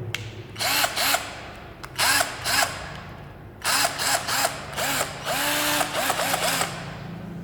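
A 12V cordless drill run in a series of short trigger pulls, its motor speeding up and winding down each time, several bursts in quick succession, the last one longest.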